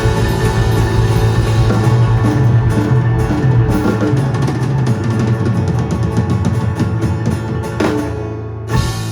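Live band with drum kit and guitar playing the close of a song: rapid drum strokes over held chords, then two sharp final hits near the end as the music rings out.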